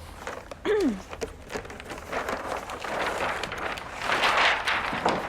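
A large paper sheet rustling and crackling as it is unfolded and spread flat on a table, loudest near the end. About a second in there is a short falling voice-like sound.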